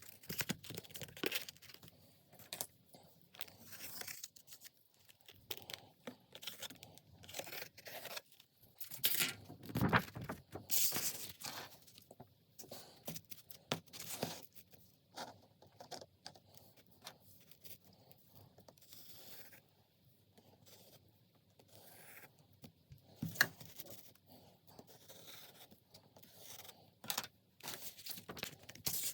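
Hands crafting with paper and tape: irregular tearing, scraping and crinkling, with a few louder strokes about a third of the way in and again past the three-quarter mark.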